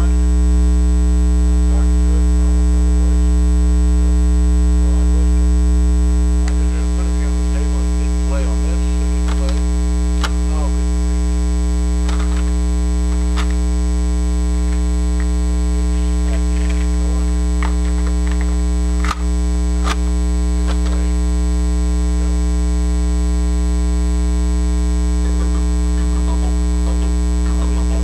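Loud, steady electrical mains hum in the audio chain: a low hum with a ladder of buzzing overtones and a faint high whine above it. This is the bad sound on a plugged-in recording setup. A few faint clicks come through around the middle.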